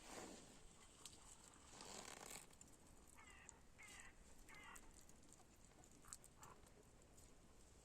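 Near silence: faint outdoor ambience with a few faint clicks, and three short chirps in a row about three to five seconds in.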